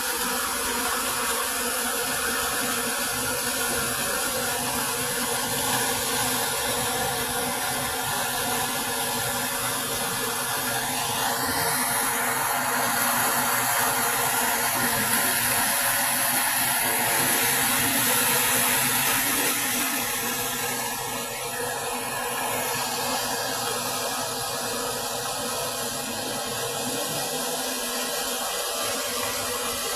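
Swollen river in flash flood, its fast floodwater making a steady rushing noise that grows a little louder and brighter in the middle.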